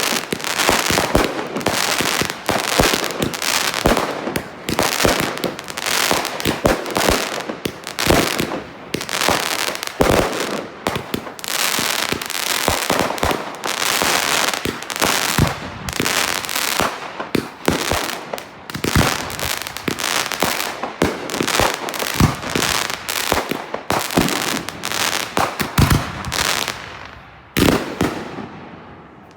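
Consumer fireworks firing in rapid, overlapping volleys: a dense run of sharp bangs and crackling reports, with a brief lull near the end before more shots.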